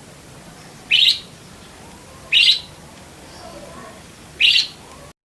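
Budgerigar giving three short, sharp chirps, spaced about one to two seconds apart, over a faint steady background hiss.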